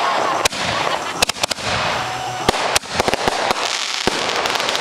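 Fireworks going off: a continuous crackle and hiss with sharp bangs at irregular intervals, several coming in quick succession.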